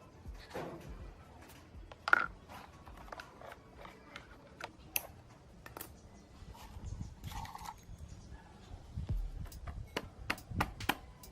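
Irregular small clicks and taps of tools and parts being handled, the sharpest about two seconds in, with a short scrape about seven seconds in.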